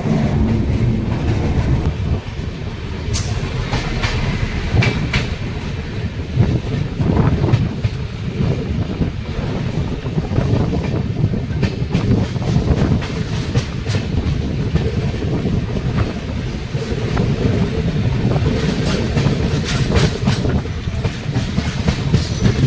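Passenger train coach rolling along the track: a steady low rumble with irregular clicks and clacks of the wheels over the rail joints, bunching into quicker clatters a few seconds in and again near the end.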